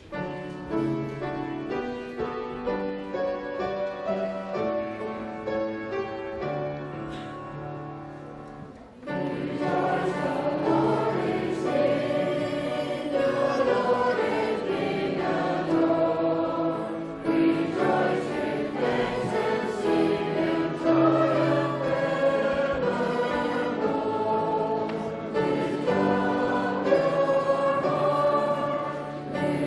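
Voices singing a hymn together with instrumental accompaniment. The first nine seconds or so are a quieter passage of held notes; the fuller singing begins about nine seconds in.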